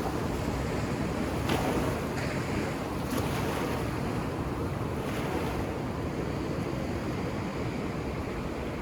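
Ocean surf washing onto a beach: a steady rushing hiss of breaking waves, with the higher hiss easing off toward the end.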